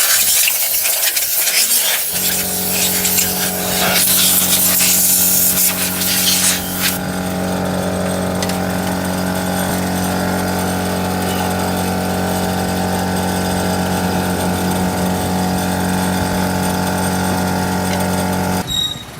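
Loud harsh hissing for the first several seconds, with a mains-powered machine switching on about two seconds in and running with a steady electric hum until it cuts off abruptly near the end.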